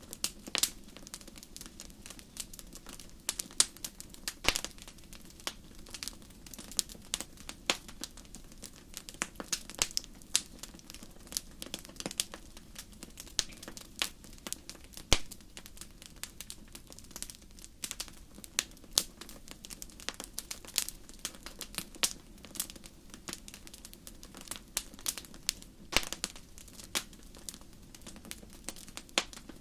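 Wood fire in a fireplace crackling: many irregular sharp pops and snaps over a low steady rumble of the flames, with a few louder pops here and there.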